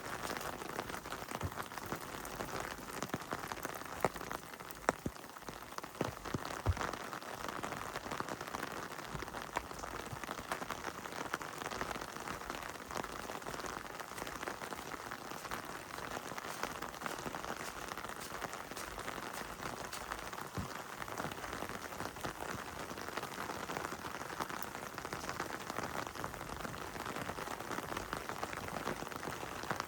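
Heavy rain falling steadily, with many scattered sharp drop ticks and a few louder taps about four to seven seconds in.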